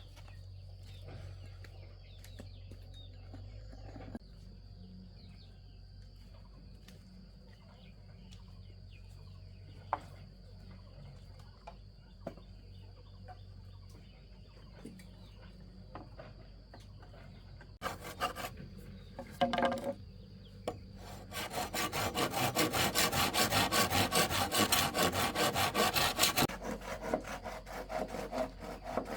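Bamboo being sawn by hand. Near-quiet at first apart from a few scattered knocks, then two short bursts of strokes about 18 seconds in, and from about 21 seconds in a fast, even run of sawing strokes for some five seconds that thins out to fewer strokes near the end.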